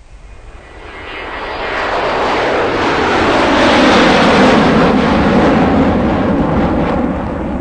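A loud rushing noise that builds over about four seconds, then eases slightly while holding steady.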